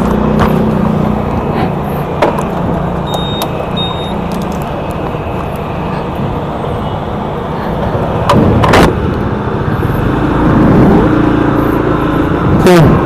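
Heavy wind rumble buffeting an SJCAM external action-camera microphone over a running motorcycle. The oversensitive, unshielded mic is picking up wind noise. Louder gusts hit the mic about eight seconds in and again near the end.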